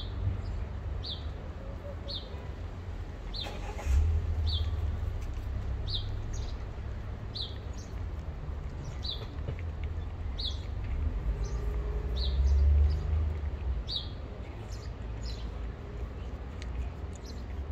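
A small bird chirping over and over, one short high chirp about once a second, over a steady low rumble that swells briefly about four seconds in and again near the two-thirds mark.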